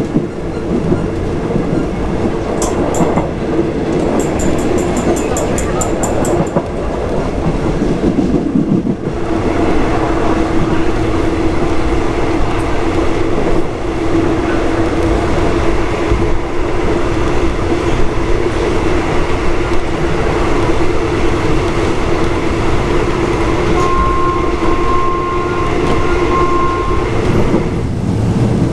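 Passenger train running along the track, heard from inside a third-class coach: a loud, continuous rumble of wheels on rail. A run of quick ticks comes a few seconds in, and a steady hum joins from about nine seconds.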